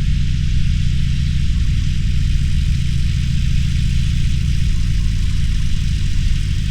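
Harley-Davidson Roadster's V-twin engine running steadily at low revs, with a steady hiss above it.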